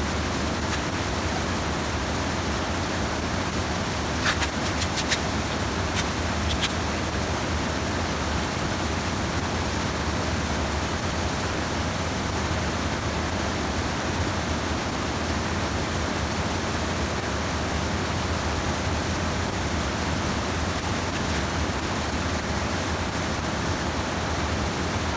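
Steady rush of stream water spilling over a small check dam, with a few sharp clicks about four to seven seconds in.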